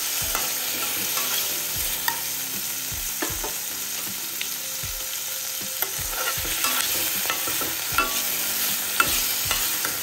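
Tomato, garlic and spices sizzling in hot oil in a kadai while a steel spoon stirs them, scraping and knocking against the pan in irregular clicks, with two louder knocks late on. The ingredients are being sautéed before being ground into a masala paste.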